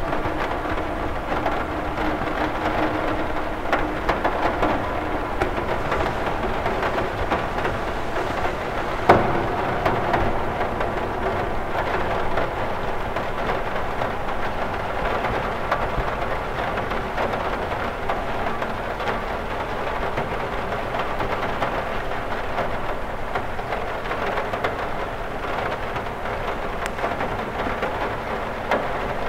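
Steady rain falling on a cathedral window: a dense stream of small drop ticks over an even hiss, with one louder tap about nine seconds in.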